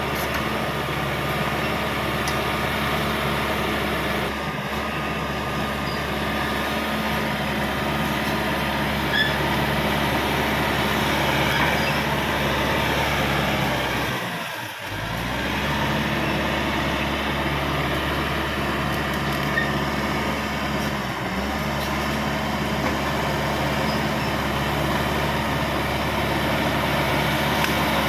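Crawler bulldozer's diesel engine running steadily at working speed, with a short dip in the sound about halfway through.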